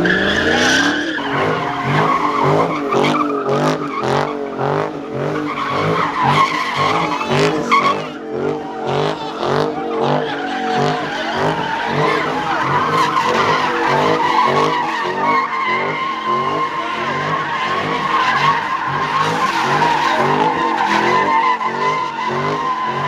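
A car spinning its tires with a sustained screech while the engine revs high, its note pulsing up and down about twice a second.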